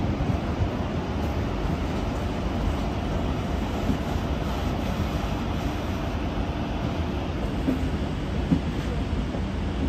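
Renfe regional electric multiple unit rolling slowly out of the station: a steady low rumble of wheels and running gear on the rails, with a couple of short knocks near the end.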